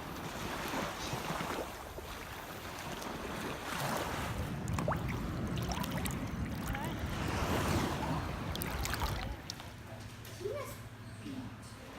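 Sea waves washing and water sloshing, with wind buffeting the microphone. It grows louder through the middle and eases off near the end.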